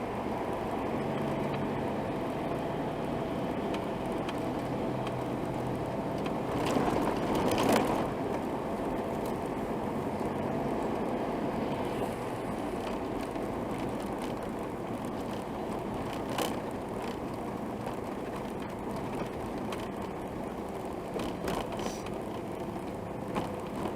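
Steady vehicle and road noise, swelling louder for a moment about seven seconds in, with a few sharp clicks later on.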